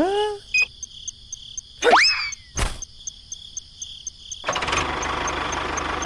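Cartoon-style sound effects: a rising whoop, a quick upward whistle glide about two seconds in, and a sharp click, over faint regular insect-like ticking about four a second. About four and a half seconds in, a steady tractor engine sound starts running.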